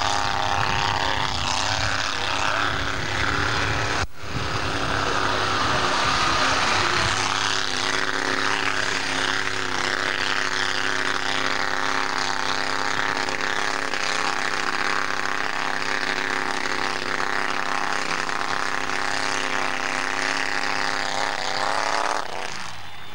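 Engine of a formula off-road (torfæra) competition vehicle held at high revs, giving a steady droning note. There is a sharp break about four seconds in, and the engine cuts off near the end.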